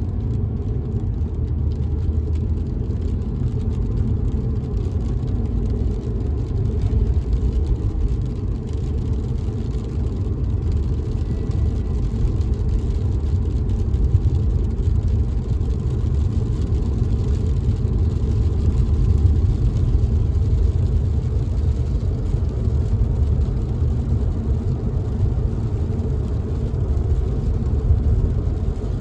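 Steady low rumble of a car driving, heard from inside the cabin, with rain on the car's windows.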